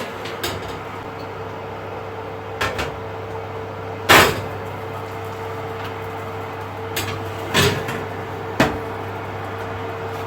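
A steady hum of a household appliance running, with a handful of short knocks and clatters on top, the loudest about four seconds in.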